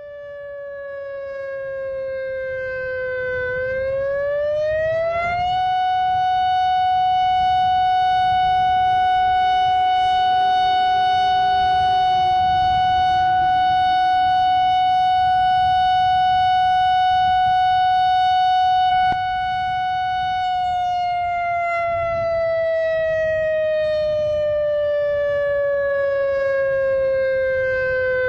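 Outdoor civil-defense warning siren sounding an evacuation alert in a slow wail. Its pitch dips, climbs within a couple of seconds, holds steady for about fifteen seconds, then slowly falls. A fainter second tone sounds beneath it.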